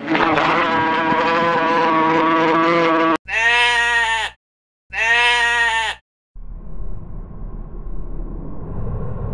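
Animal calls cut one after another: a long bleat lasting about three seconds, then two identical short calls that rise and fall in pitch, then a rough, noisy sound.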